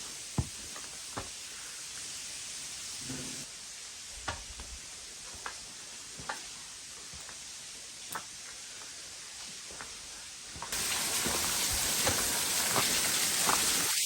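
Steady hiss of running water with scattered sharp clicks; the rushing sound jumps suddenly louder about eleven seconds in.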